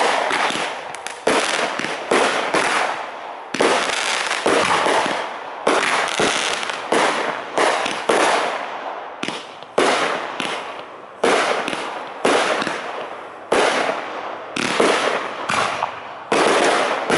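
Aerial fireworks shells bursting in a steady barrage, about one sharp report a second, each fading away before the next.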